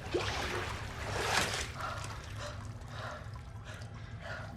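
Water sloshing and splashing in a flooded basement, louder over the first second and a half, over a low steady hum.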